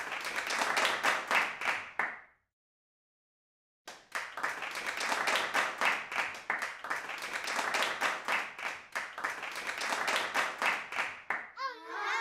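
Applause: many hands clapping, cutting out after about two seconds and starting again a second and a half later. Near the end the clapping gives way to a wavering, sweeping tone.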